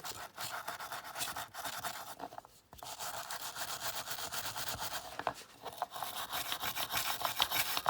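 A brush scrubbing caustic-softened paint off a die-cast metal model aircraft, in repeated scratchy strokes with a brief pause about two and a half seconds in. The stripped paint is coming off easily.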